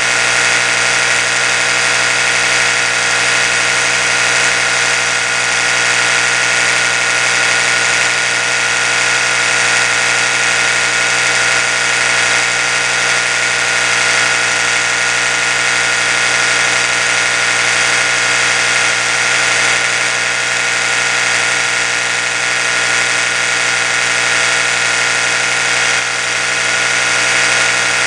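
Oral-B electric toothbrush running continuously: a steady buzz that holds one pitch without a break.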